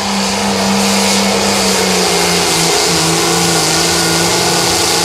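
Turbocharged diesel engine of an 8,500-pound limited pro stock pulling tractor at full throttle under load during a pull. Its pitch holds steady, then sags a little about halfway through as the sled bears down, over a loud high hiss.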